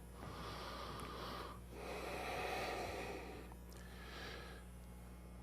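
A person breathing audibly: three long, airy breaths, the middle one the loudest, over a faint steady low hum.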